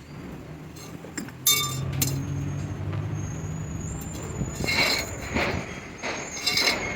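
Metal clinking and clanking as tools and jack parts are handled. There is a sharp ringing strike about a second and a half in, and a cluster of clanks and scrapes in the second half, over a low steady hum.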